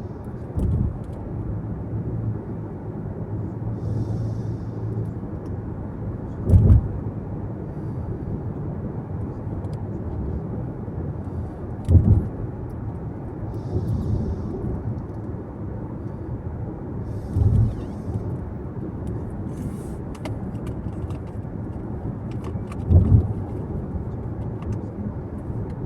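Steady low rumble of tyres and engine heard inside a moving car's cabin. A short low thump comes about every five to six seconds.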